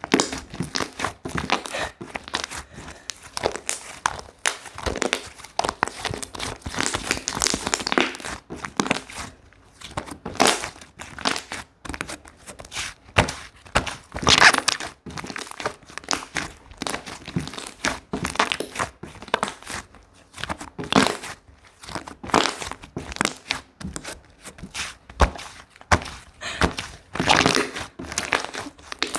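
Slime being kneaded and stretched by hand, with dense, irregular crackling and popping throughout.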